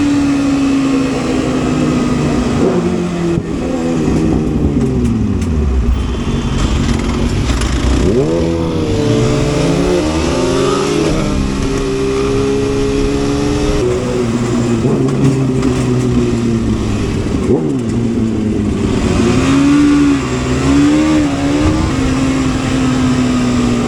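Motorcycle engine under way, running through its revs. Its pitch falls off a few seconds in, climbs sharply about eight seconds in and then steps through gear changes. It drops again past the middle and picks back up near the end.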